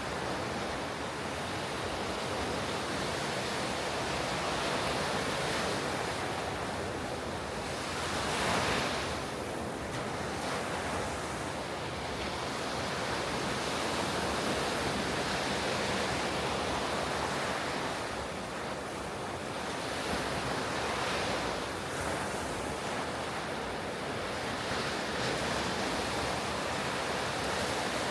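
Ocean surf breaking on a beach: a steady wash of waves that swells and ebbs, with one louder break about eight seconds in. Some wind on the microphone.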